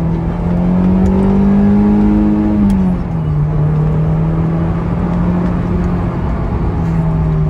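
Honda S2000's four-cylinder engine pulling under acceleration, its note climbing for a couple of seconds, then dropping sharply about three seconds in at a gear change and holding steady after.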